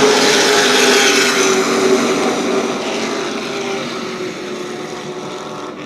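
A field of Super Truck race trucks running at speed on a short oval, their engines a loud steady drone that fades away over the last few seconds as the pack moves off.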